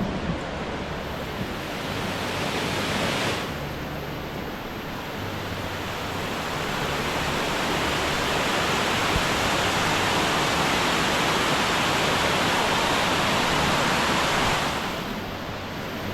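Trahlyta Falls, a waterfall cascade, rushing steadily. It grows louder from about six seconds in and drops off sharply shortly before the end.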